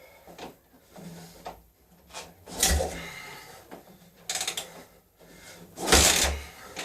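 Kick-starting the single-cylinder engine of a Yamaha XT600: three kicks about a second and a half apart, each a short burst of mechanical clatter as the engine is spun over.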